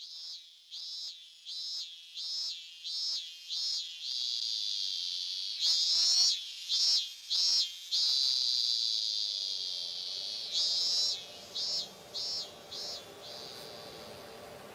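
Insect calls, high-pitched: a series of chirps about every half second that grow louder and run together into a continuous buzz. The chirps return twice, each time settling into a steady buzz that fades near the end.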